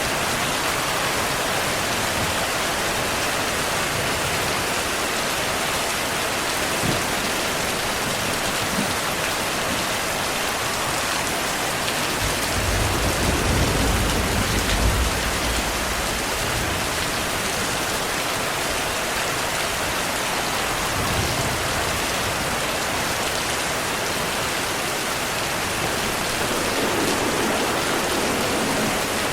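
Steady rain falling hard and evenly, with a low rumble of distant thunder about halfway through.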